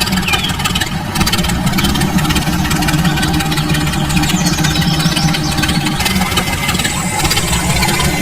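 A small motor running steadily with a constant low hum.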